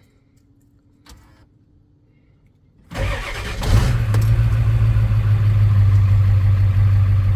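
Ford F350-based truck's diesel V8 cold-starting after a wait for the glow plugs. Near 3 s in it cranks briefly, catches within about a second and settles into a steady idle.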